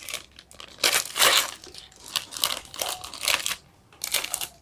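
Plastic ice cream wrapper being crinkled and torn open, in several crackling bursts.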